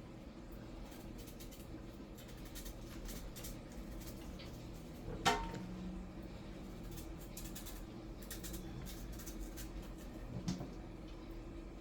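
Faint kitchen work sounds: small clicks and scrapes over a steady low hum, with one sharp knock that rings briefly about five seconds in.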